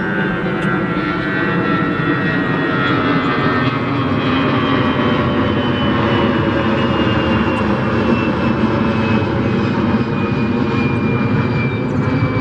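Airplane flying over: a steady engine drone whose pitch falls slowly as it passes.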